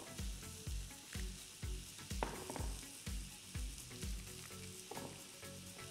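Chicken thigh pieces sizzling steadily in hot olive oil in a pot, under background music with a steady beat about twice a second. A couple of light knocks come from hands working over a small steel bowl.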